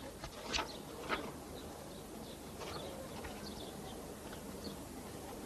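Quiet outdoor ambience with a few faint bird chirps, and two light taps in the first second and a half.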